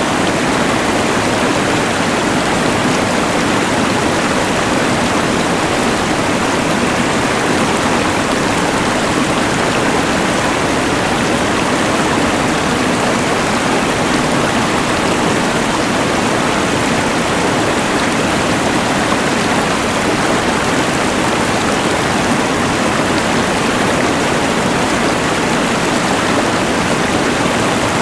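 Steady rushing of a mountain river blended with the even hiss of a LectroFan white noise machine, unchanging throughout.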